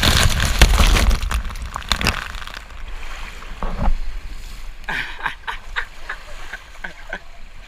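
Water splashing and rushing, loud for the first two seconds or so and then dying down to a softer wash with scattered small splashes.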